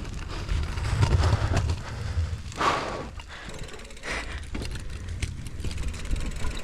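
Single-speed mini bike rolling fast down a dirt trail: tyres on the ground, rattling clicks from the bike over bumps, and a low rumble of wind on the microphone, with a brief louder hiss about two and a half seconds in.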